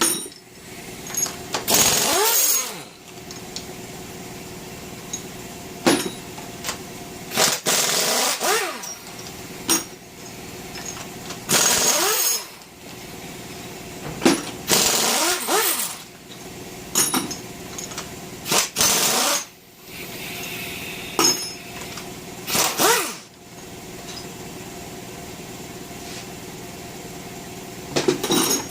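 Pneumatic impact wrench run in bursts of about a second, some seven times, each spinning up and down in pitch, as it breaks loose the cylinder head bolts on a Chevrolet small-block 350. An air compressor runs steadily underneath.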